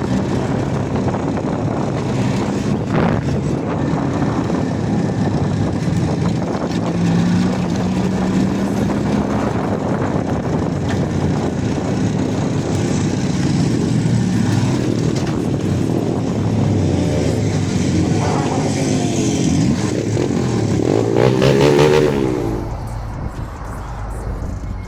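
Motorcycle engine running at speed under heavy wind rush, its note rising around a third of the way in and wavering near the end; the sound changes abruptly a few seconds before the end.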